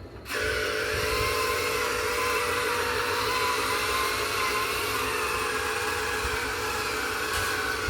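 Electric motors of a Huina 1580 RC excavator whirring steadily, a high whine that wavers slightly in pitch and cuts off abruptly near the end.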